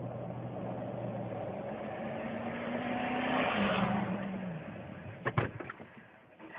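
Motorcycle engine running, its pitch climbing a little, then dropping away. This is followed by a cluster of sharp knocks about five seconds in.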